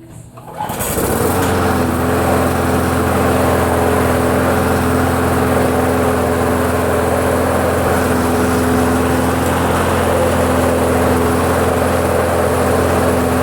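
Craftsman self-propelled lawn mower's Briggs & Stratton 550-series single-cylinder four-stroke engine catching about a second in and then running steadily at a constant speed. It starts right up once the carburetor has been cleaned and its diaphragm and gasket replaced.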